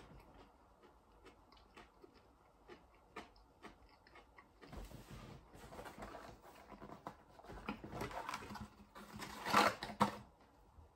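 Chewing a crispy breaded chicken strip, faint mouth clicks, then rustling and handling of a cardboard food box from about halfway, loudest near the end as another strip is taken out.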